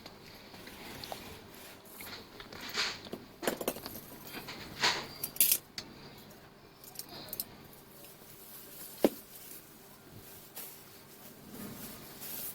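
Scattered light clinks and rattles of a stainless steel tap and its metal fittings being handled, with a sharp click about nine seconds in.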